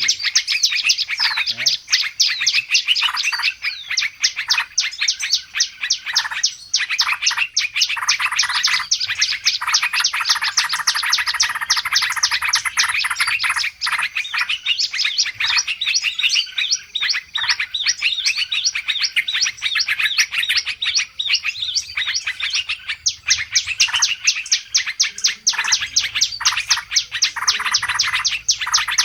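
A dense chorus of many small songbirds chirping and twittering rapidly all at once, without a break. This is a noisy bird-lure (pikat ribut) recording of the kind played to draw wild birds in.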